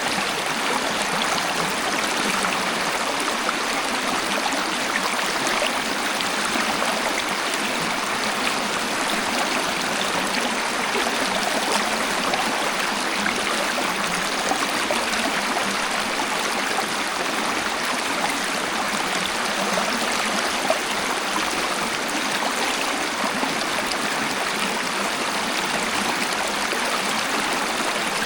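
Natural waterfall: water rushing steadily in an even hiss, with little deep rumble.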